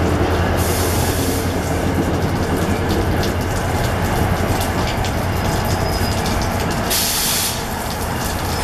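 New Jersey Transit commuter train coaches rolling past: a steady low rumble with many wheel clicks over the rails. Two brief hisses cut in, about a second in and again about seven seconds in.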